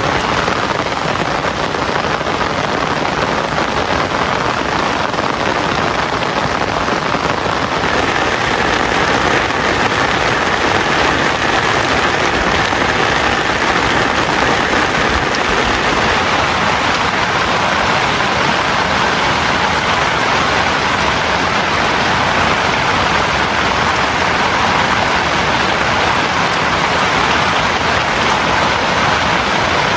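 Heavy rain falling steadily as a dense, even hiss, getting a little louder about eight seconds in.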